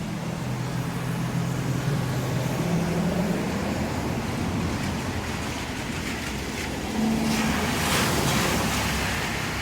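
Heavy rain falling on a city street, with the low hum of traffic on the wet road. About seven seconds in, a louder wash of spray swells up as a vehicle passes through the water.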